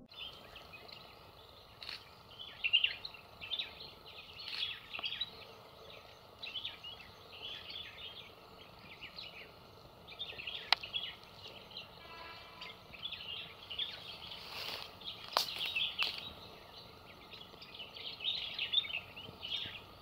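Wild birds chirping: many short high calls, some in quick runs, with a few sharp clicks in between.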